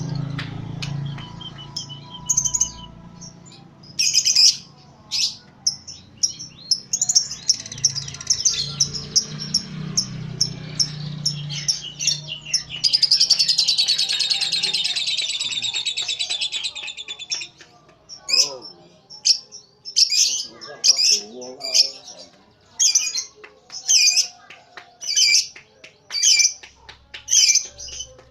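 Lovebird calling with many sharp, high chirps. About halfway through it breaks into a rapid, continuous chattering song (a short 'ngekek') lasting about four seconds. After that come evenly spaced single chirps, a little over one a second.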